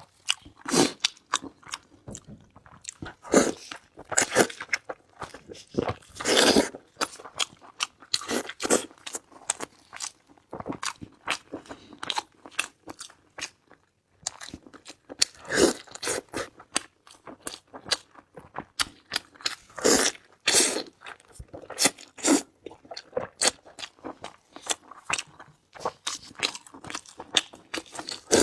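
Close-miked eating: chewing and crunching of food in an irregular run of crisp bites, with a short pause about halfway through.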